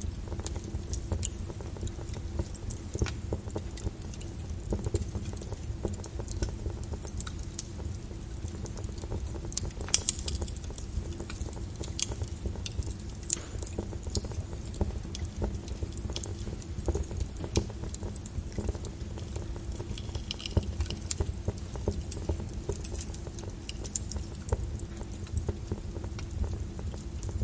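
Wood fire crackling in a fireplace: scattered sharp pops and snaps over a steady low rumble and a faint hum, with one louder pop about ten seconds in.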